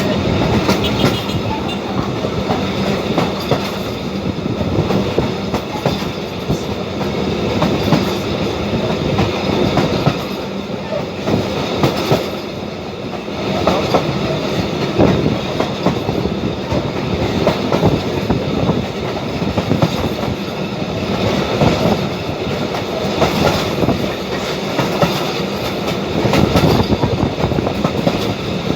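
Passenger train running along the track, its wheels clattering over the rails with a steady rumble and a run of knocks throughout.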